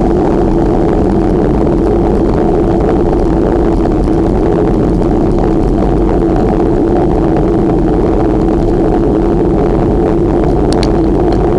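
Loud, steady wind noise on the microphone of a moving bicycle rider.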